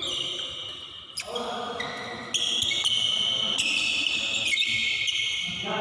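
Badminton rally sounds: sports shoes squeaking on the court floor in long high squeals that shift in pitch, with a few sharp racket hits on the shuttlecock.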